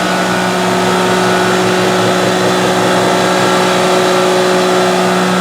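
Shop air compressor running steadily, with a constant hum and a rapid low pulsing, mixed with the hobby CNC mill's spindle and a half-inch three-flute end mill cutting metal.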